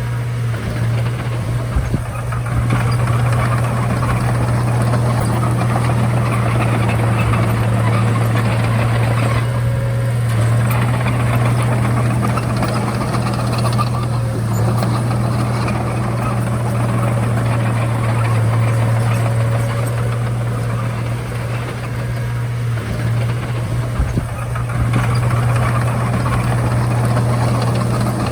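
Komatsu D31A bulldozer's diesel engine running steadily with a deep, even hum, with a couple of sharp knocks about two seconds in and near the end.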